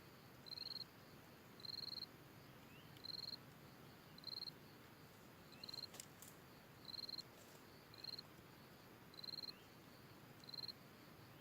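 An insect chirping: short, high-pitched chirps at one steady pitch, repeated about once a second, over a faint background hiss. A single brief click about six seconds in.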